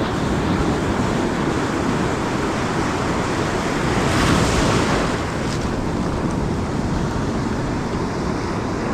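Ocean surf breaking and washing up the beach, with wind rumbling on the microphone; a wave swells louder about four seconds in.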